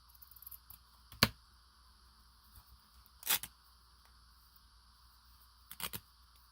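Fabric scissors snipping through fabric scraps: three separate sharp snips about two seconds apart, the first the loudest, the last a quick double.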